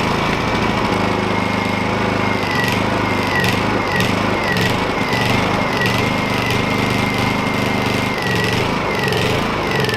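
Honda EU2000 inverter generator engine running rough: its speed wavers, dipping and recovering repeatedly through the middle, and starts to wind down near the end. The owner puts the rough running down to a plugged carburetor jet.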